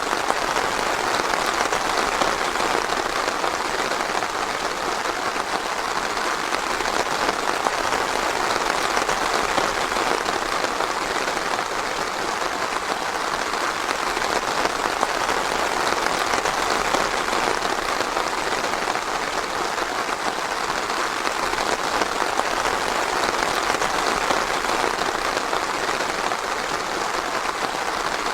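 Steady rain falling in a forest, a dense even patter of drops on leaves and ground.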